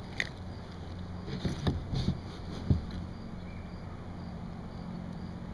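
A few dull knocks and bumps against a kayak, the loudest near the middle, over a steady low rumble.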